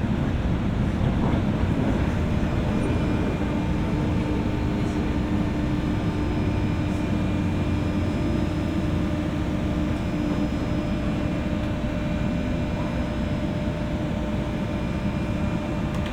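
Cabin sound of a JR West 201-series electric train motor car: a steady low rumble with a steady electrical hum that sets in about three seconds in and fades away near twelve seconds.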